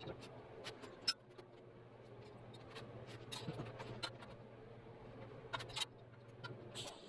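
Scattered light clicks and taps, a sharper one about a second in, over a faint steady low hum.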